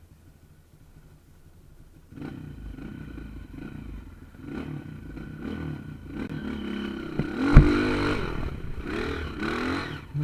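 Off-road vehicle engine revving up and down, getting louder, with one sharp knock about seven and a half seconds in.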